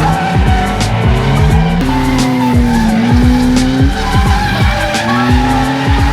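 Drift cars sliding with engines revving up and down and tyres skidding, with music playing over them.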